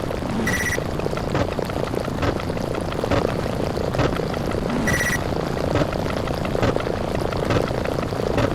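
Counting-video sound effects played in such rapid overlapping succession that they blur into a continuous noisy rumble. A short high beep-like tone cuts through twice, about half a second in and about five seconds in.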